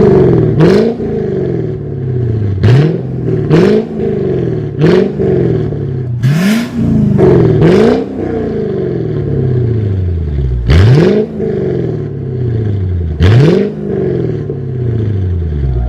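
Mercedes-Benz S500 W220's V8 through an aftermarket valved cat-back exhaust, revved in quick throttle blips about eight times, each sharp rise in pitch dropping slowly back toward idle.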